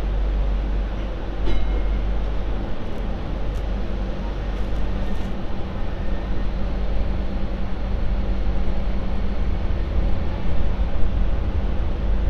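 Hong Kong MTR Light Rail Phase IV light rail vehicle running along the line: a steady rumble of wheels on track with a faint steady motor hum, and a brief high tone about a second and a half in.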